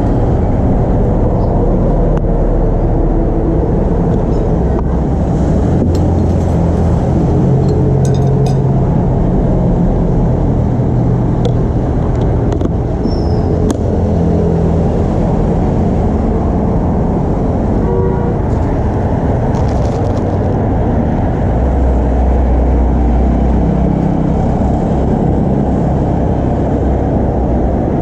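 Loud, steady low rumble of street traffic, with a few faint clicks and knocks here and there.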